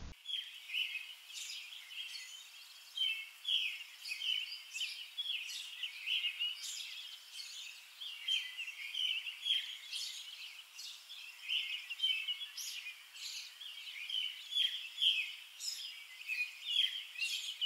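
Songbirds singing outdoors: a continuous run of short, quick chirping phrases, one after another.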